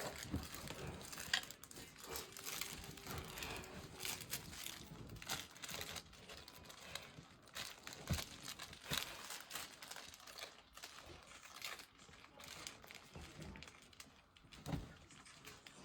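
Faint, irregular crinkling and rustling of a dog chewing and shaking a toy fish.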